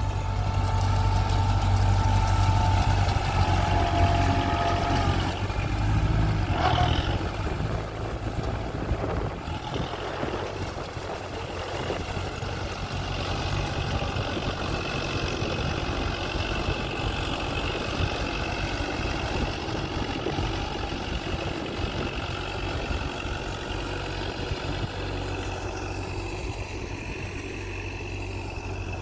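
Kubota MU4501 tractor's diesel engine running steadily. It is louder and deeper for the first several seconds, then settles to a steadier, somewhat quieter run.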